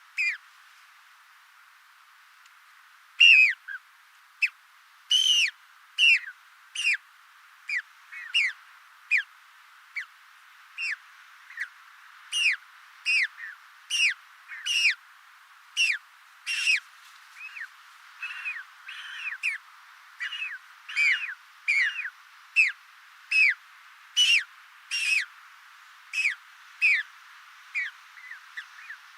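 A flightless bird calling in a long series of short, shrill whistles, each dropping in pitch, about one to two a second after a short pause near the start.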